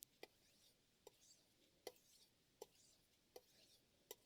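A steel chef knife blade stroked back and forth on a Shapton M15 ceramic whetstone: faint scraping swishes, with a sharp click about every three quarters of a second.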